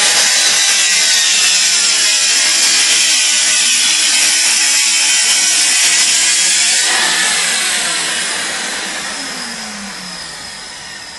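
Festool TS plunge-cut track saw running and cutting along its guide rail, then released about seven seconds in, its motor and blade winding down with a falling pitch.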